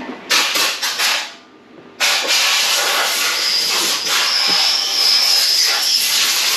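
Pressurized spray hissing in bursts: one short burst near the start, then after a pause a long steady burst of about four and a half seconds, with a faint high whistle partway through.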